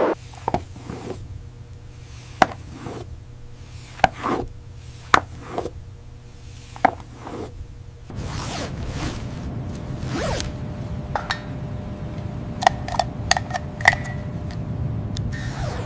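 Scattered sharp clicks, knocks and scrapes of tools being handled. About halfway through, a steady hiss starts and carries on under further taps.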